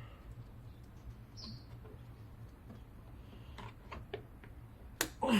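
Quiet background with a steady low hum, a short high chirp about a second and a half in, a few light clicks, and a sharp click near the end.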